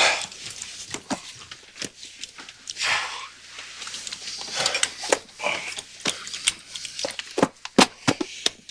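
Passengers settling into airplane seats: rustling of clothing and bags with scattered light clicks and knocks, several in quick succession near the end.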